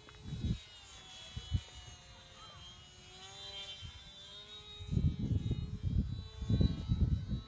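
Small electric motor of an RC airplane, faint, its whine drifting up and down in pitch as it flies. From about five seconds in, gusts of wind buffet the microphone with a loud, uneven low rumble.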